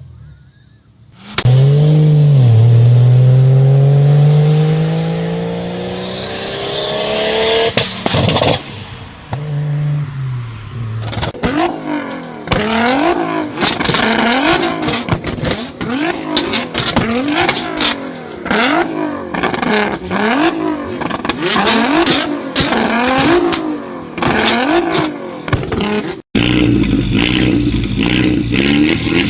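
Modified performance car engine revving hard: one long rev climbing steadily for several seconds and dropping off, then a long run of quick throttle blips about once a second, each laced with sharp exhaust pops and bangs. After a brief break near the end, another engine runs on steadily.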